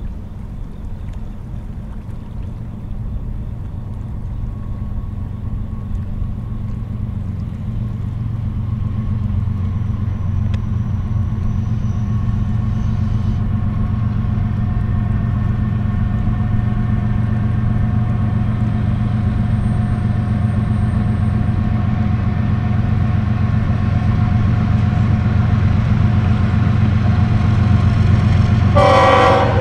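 Approaching CSX diesel freight locomotive: a low, steady engine rumble that grows steadily louder as the train nears. A brief, louder stack of tones sounds near the end as the locomotive comes into view.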